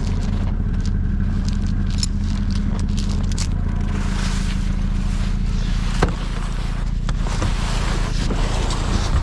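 A motor vehicle engine idling steadily, its note shifting slightly a few seconds in, under scraping and rustling noises. A sharp knock comes about six seconds in.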